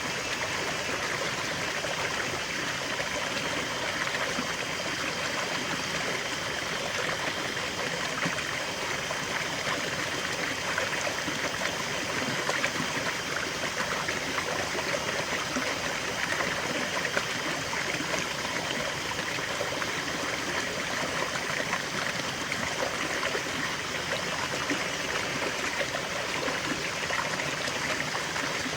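River water flowing steadily over rocks, a continuous rush with fine trickling and splashing detail.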